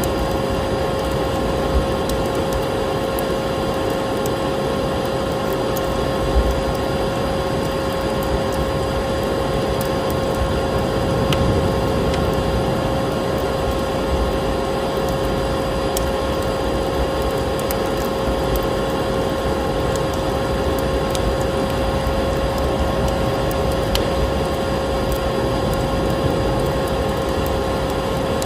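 Vacuum cleaner running steadily, a constant rushing hiss with a steady motor whine, mixed with the occasional faint crackle and pop of a wood fire.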